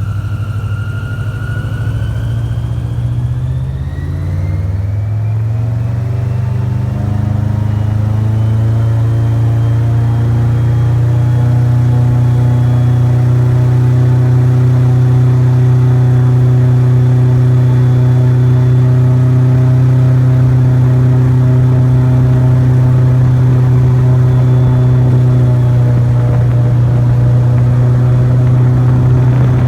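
Airboat engine and propeller speeding up, the pitch rising over the first several seconds, then running steadily at speed.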